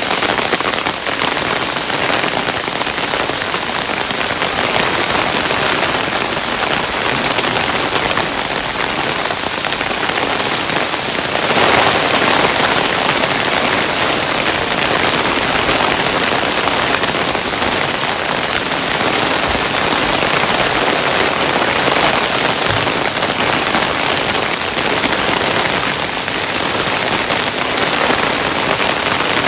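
Hailstones falling in a dense, steady patter, swelling a little louder about twelve seconds in.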